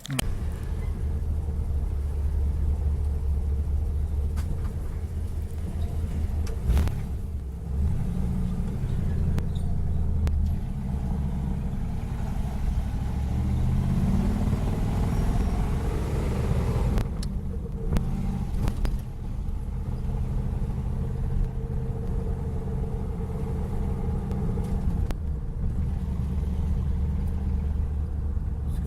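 Ford Fairlane 500's 6-litre V8 engine running steadily, its pitch rising for a few seconds about halfway through and then dropping back abruptly.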